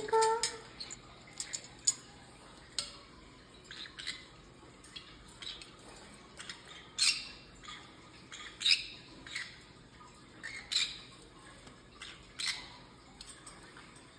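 Conure giving short, sharp squawks every second or two while bathing.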